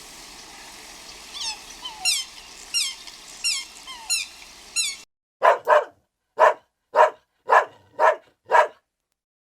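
A run of high, falling squeaky yelps over background noise, then a dog barking about eight times, roughly two barks a second.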